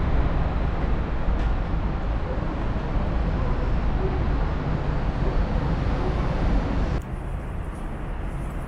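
Steady low background rumble of outdoor vehicle noise, changing abruptly to a quieter, thinner noise about seven seconds in.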